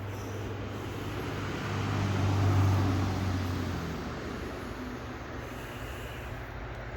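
A motor vehicle passing on a nearby road: its tyre and engine noise swells to a peak about two and a half seconds in, then fades away.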